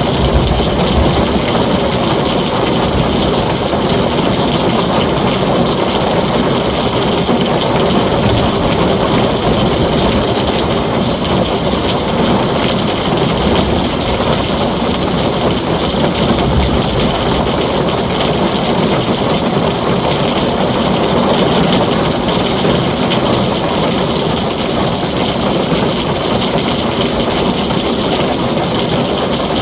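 Heavy rain falling steadily on a tin roof, with a low rumble underneath.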